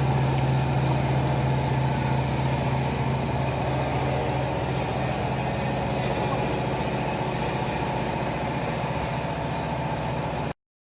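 Fully automatic baler running: a steady machine drone with a strong low hum and a faint high whine, stopping abruptly near the end.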